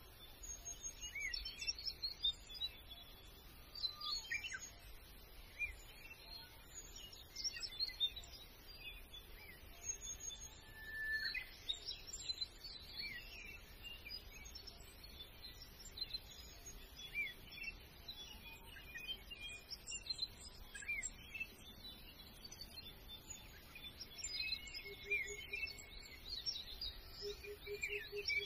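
Birdsong from several birds: many short chirps, whistles and trills overlapping, with a faint lower repeated note near the end.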